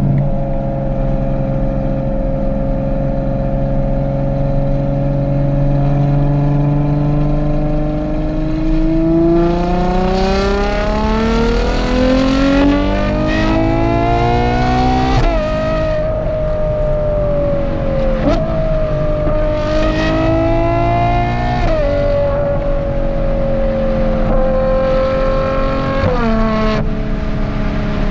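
Ferrari Purosangue's V12 running through a Novitec race exhaust, driven hard: the engine note holds steady, then climbs for several seconds and drops sharply at a gearshift about halfway through. Further shorter pulls and shifts follow, with a quick jump in revs near the end.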